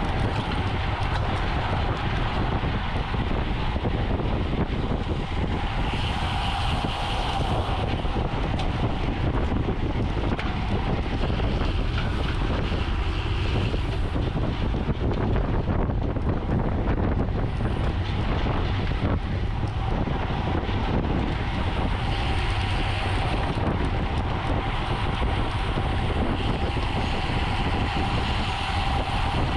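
Wind rushing over the microphone and tyre noise from a road bicycle riding at race speed, a steady loud rush with a faint hum.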